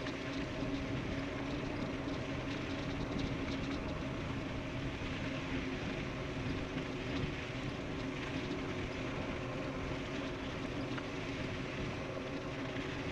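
Electric bike riding fast downhill: a steady rush of wind and tyre noise with a constant low hum underneath.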